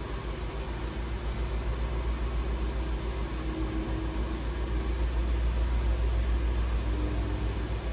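A 2002 Lexus LS430's 4.3-litre V8 idling steadily during a cold start.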